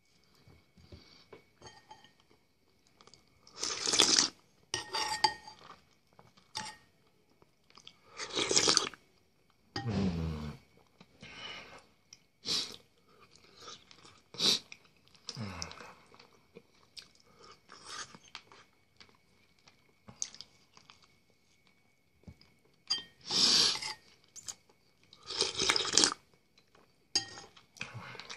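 Close-up eating sounds: a person biting and chewing food held in the hand, with irregular crunches, the loudest every few seconds. A faint steady high tone sits underneath.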